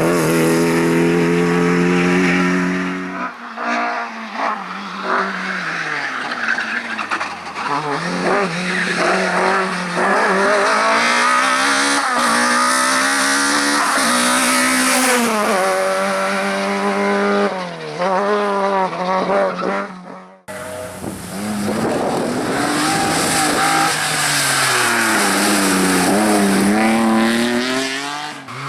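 Race car engine revving hard, its pitch climbing and dropping repeatedly through gear changes and lifts, with tyres squealing. About two-thirds of the way in the sound cuts abruptly to another stretch of the same kind of hard driving.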